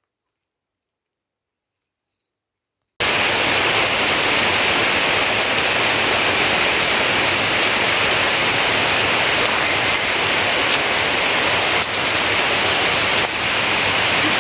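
Near silence for about three seconds, then heavy rain starts abruptly: a dense, steady hiss of downpour with a few faint ticks of drops.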